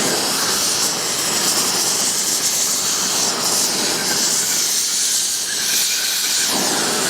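Gas torch flame hissing steadily as it heats an aluminium casting mould for pouring lead.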